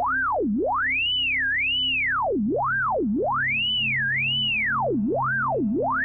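Computer-generated pure sine tone from a p5.js oscillator, its pitch set by a point riding along a drawn shape. It glides smoothly up and down in a repeating pattern of arches, alternately swooping from low up to a high peak and to a lower peak, about a dozen sweeps in all. A faint music bed plays underneath.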